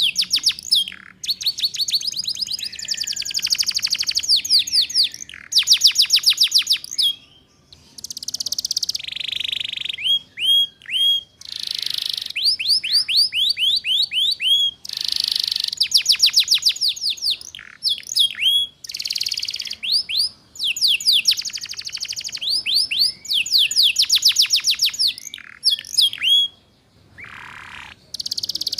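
Canary singing in fast trills of rapid, repeated, downward-sweeping high notes, in phrases of one to two seconds with short breaks between them: the chattering ngeriwik song.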